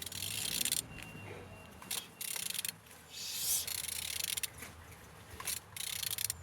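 Renault K9K 1.5 dCi diesel engine being turned over by hand, heard as several short bursts of mechanical rubbing and scraping with pauses between them; the engine turns freely.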